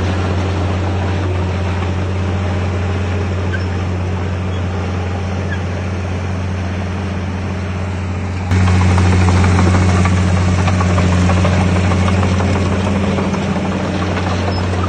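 Komatsu D51PX bulldozer's diesel engine running steadily with a deep, even drone; a little past halfway it jumps abruptly louder and stays there.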